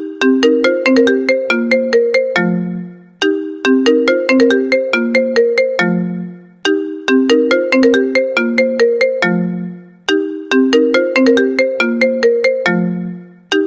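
iPhone incoming-call ringtone looping. A short melodic phrase of quick notes ends on a lower held note, and it repeats about every three and a half seconds.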